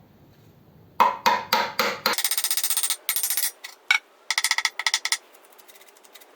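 Hammer striking metal on an early Ford flathead's exhaust to knock it free: four separate blows about a second in, then two bursts of rapid, ringing taps.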